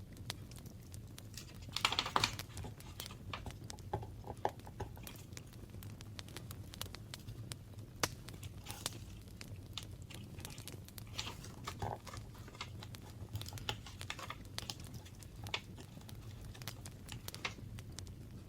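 Paper and craft materials being handled for an art journal: scattered small taps and clicks with soft rustling, and a louder paper rustle about two seconds in.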